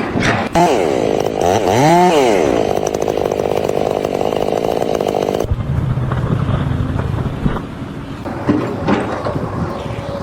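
A small engine revving up and down in pitch for about five seconds. It cuts off abruptly, giving way to a lower, rougher running machine with a few knocks.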